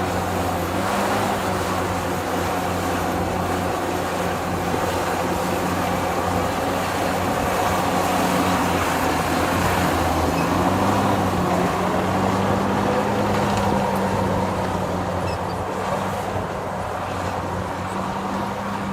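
Heavy diesel engine of construction machinery running steadily, with small shifts in engine speed about a second in and again about halfway through.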